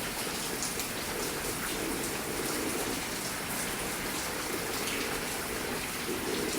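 Heavy rain falling steadily in a thunderstorm, an even hiss of rain on surfaces.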